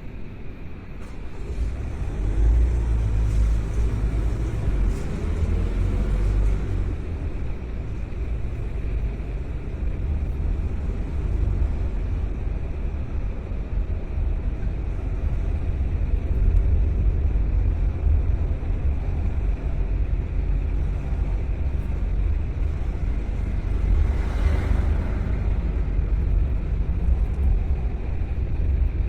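A car being driven, with a steady low rumble of engine and road noise that grows louder about two seconds in as it picks up speed. A brief swell of hiss comes about three quarters of the way through.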